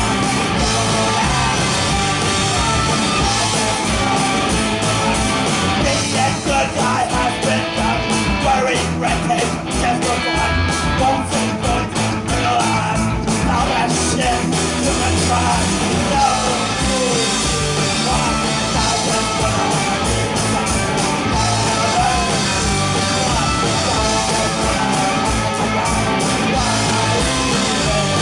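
Live punk-tinged rock band playing loudly, with yelled singing over the full band.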